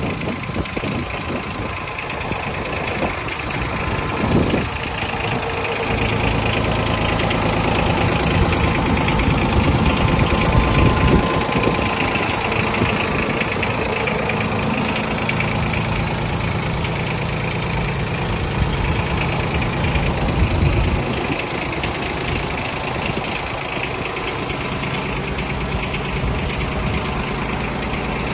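Yanmar F155D mini tractor's three-cylinder water-cooled diesel engine running with a steady diesel clatter. It gets louder from about six seconds in and settles back down a little after twenty seconds.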